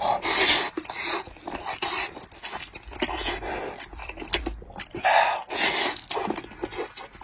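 Close-miked eating: a man chewing claypot rice with open-mouthed mouth noises and loud, breathy huffs, the strongest at the start and about five seconds in.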